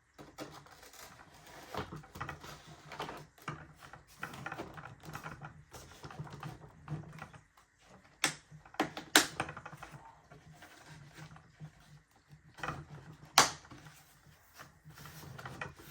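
Irregular plastic clicks, knocks and handling noise as a foam RC plane wing is pushed onto its fuselage clips and connector, with a few sharp snaps in the second half.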